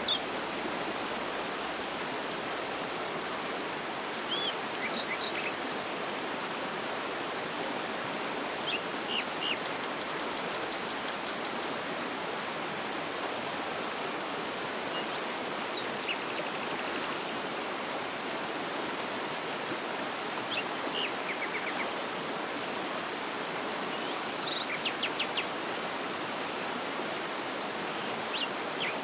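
Waterfall rushing steadily, with scattered bird chirps and calls and a few short, fast high trills over it.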